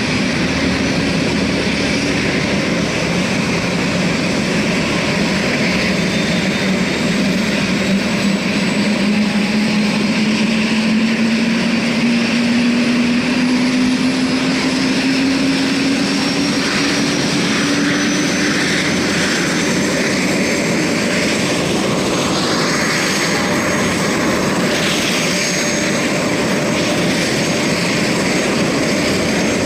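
Airbus Helicopters AS 350 turbine engine and rotor running steadily, with a tone that slowly rises in pitch over the first twenty seconds or so.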